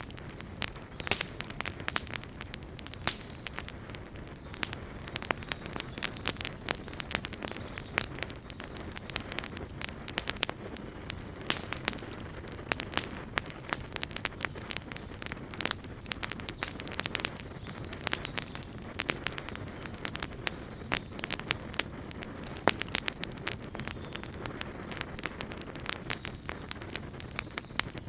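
Wood campfire burning, with dense, irregular crackles and pops over a steady low rumble of the flames.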